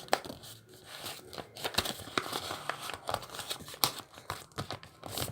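A sheet of paper being folded and creased by hand into a paper airplane: rustling and crinkling with many short, sharp crackles.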